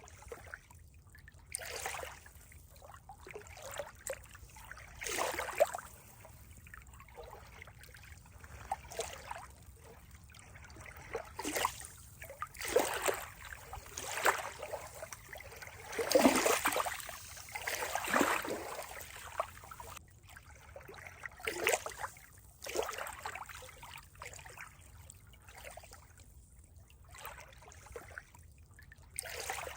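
Water trickling and splashing in irregular surges every second or two, with a louder swell about midway.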